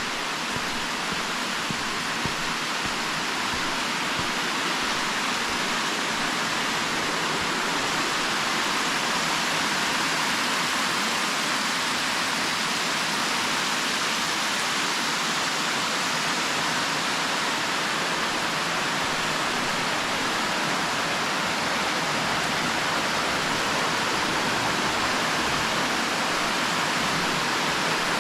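Waterfall cascading over rock: a steady rush of falling water, growing a little louder over the first several seconds.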